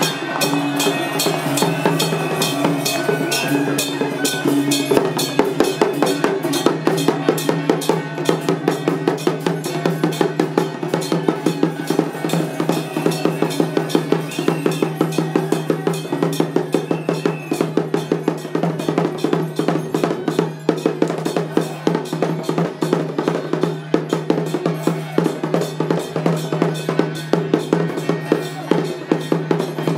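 Temple procession percussion: drums and cymbals beating a fast, steady rhythm, with a held musical tone underneath.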